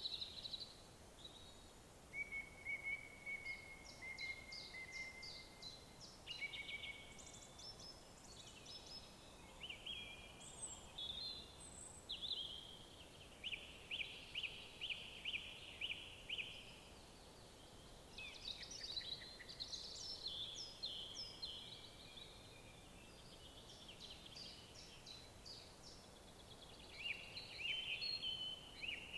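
Woodland songbirds singing one after another: short whistled phrases, trills and quick runs of repeated notes, over a faint steady background hiss.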